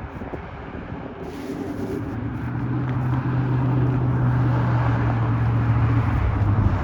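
Metra train approaching: a steady low engine drone that grows louder, dipping slightly in pitch near the end.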